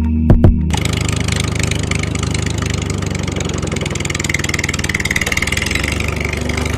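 Small engine running steadily with a fast, even chugging, after a music track with drum hits cuts off just under a second in.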